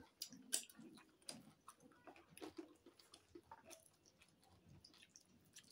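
Faint chewing and mouth sounds of people eating by hand, with short soft clicks and smacks scattered throughout.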